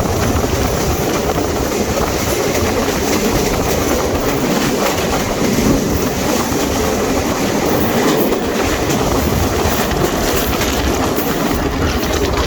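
Benapole train running at speed: a loud, steady rumble of wheels on the rails with faint clickety-clack clicks.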